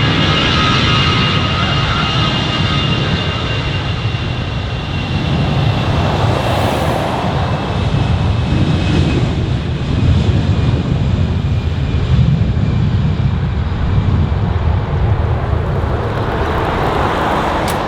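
Airbus A320-214's twin CFM56-5B turbofan engines at takeoff thrust: a loud, steady jet roar with a heavy low rumble and a thin high fan whine that slides slightly lower in pitch over the first half of the pass.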